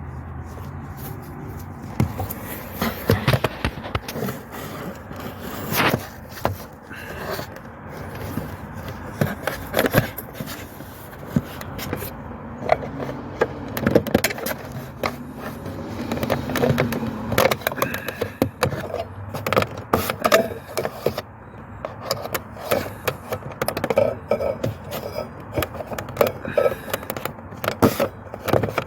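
Irregular plastic scraping, clicks and knocks from hands and a tool working on a Mercedes W203 instrument cluster, prying at its clips and housing.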